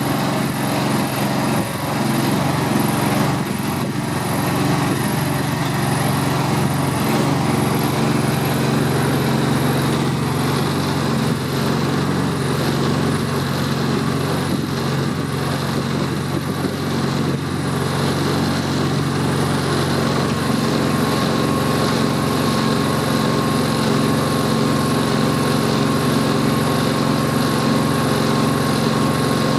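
An engine running steadily at an even idle, with no revving. About two-thirds of the way in, a thin, steady high whine joins it.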